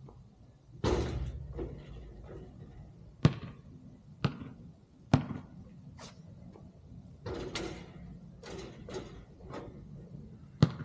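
A basketball bouncing on the court in single sharp knocks a second or more apart, mixed with a few longer rattling impacts.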